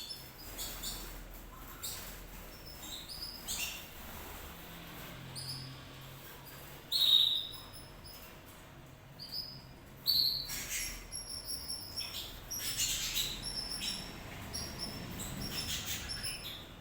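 Canary chirping: short, high chirps scattered throughout, with one loud chirp about seven seconds in and a quicker run of them from about ten seconds on.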